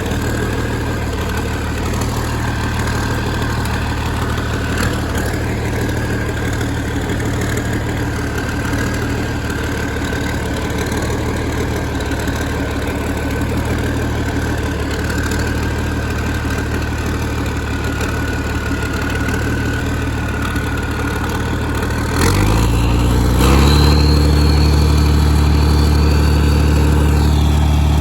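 Tractor engine idling steadily with a faint whine, then speeding up about 22 seconds in and holding steady, louder, at the higher speed.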